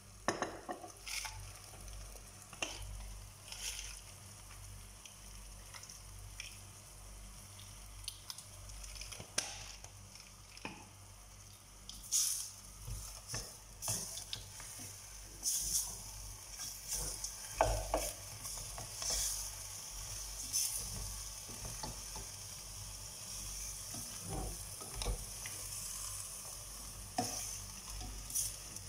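Chicken feet sizzling in sauce in a stainless steel pot on a gas burner, stirred with a spatula that scrapes and knocks against the pot now and then. The sizzle grows a little stronger in the second half.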